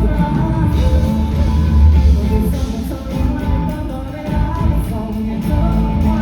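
A live pop-rock band playing with a singer, with heavy bass.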